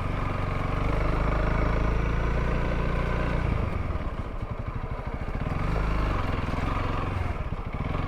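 Honda CRF300L single-cylinder engine running while riding. About three and a half seconds in, the revs drop to a slower, pulsing beat for about two seconds, then pick back up.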